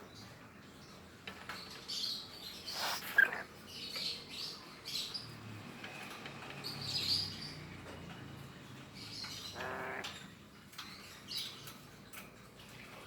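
Pet lory (nuri parrot) giving short, high chirps at intervals, with two louder calls, one about three seconds in and one near ten seconds.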